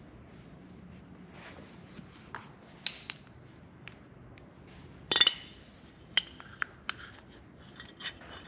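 Metal parts of a torn-down Ryobi table saw motor clinking and knocking together as they are handled, a scattered run of sharp clinks with a short ring, the loudest about five seconds in.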